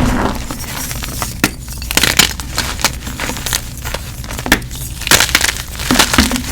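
Gym chalk being crushed and crumbled: a run of crunchy cracks and crumbling, with denser bursts about two and five seconds in.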